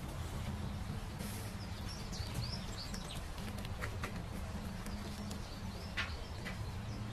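Small birds chirping in the background over a steady low hum, with a couple of light clicks, about four and six seconds in, from hands working at a fitting on the sheet-metal cabinet.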